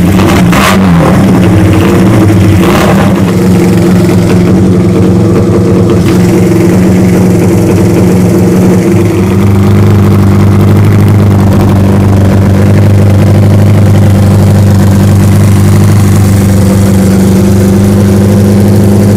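Motorcycle engine firing up cold and running to warm up, with a couple of quick throttle blips in the first few seconds, then holding a steady idle.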